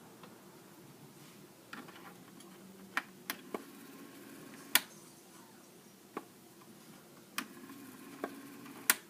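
About eight sharp clicks and taps at irregular intervals over a faint low hum, the loudest about five seconds in and just before the end.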